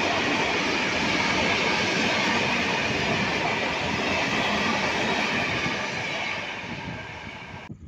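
A freight train of open coal wagons rolling past: a steady rumble and rattle of wheels on the rails, with a high-pitched ring in the noise. It fades as the last wagons pass, then cuts off suddenly near the end.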